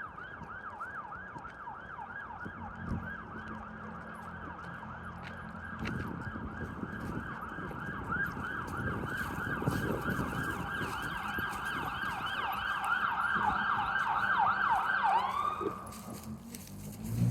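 Emergency vehicle siren on a fast yelp, its pitch sweeping up and down several times a second. It grows louder, then winds down in pitch and cuts off near the end, with a low traffic rumble underneath.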